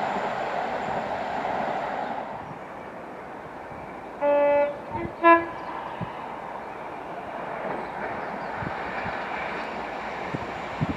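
Train running past and fading away, then its horn sounding two short notes about four seconds in, a lower, longer note followed by a higher, shorter one.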